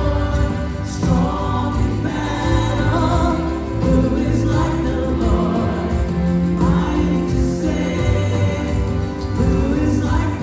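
Gospel praise music with a choir singing over a band with a steady bass line.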